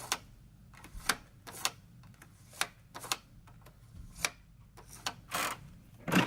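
Faint, irregular clicks and knocks, roughly two a second, over a quiet background.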